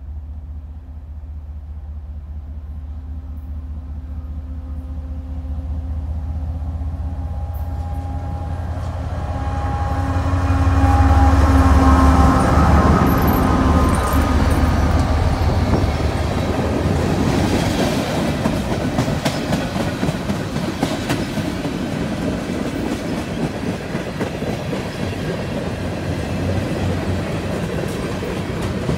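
Freight train passing. The diesel locomotives' engines drone louder as they approach and go by about halfway through, then the freight cars roll past with steady rattling and wheels clicking over the rail joints.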